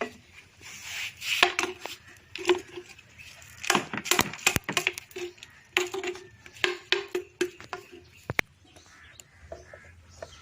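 Scattered clicks and knocks of plastic and metal parts being handled and fitted during top-loading washing machine repair work.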